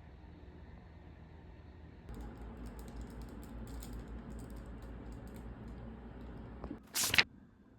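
A run of light, irregular clicks and taps from small objects being handled, then a short loud knock or rustle about seven seconds in.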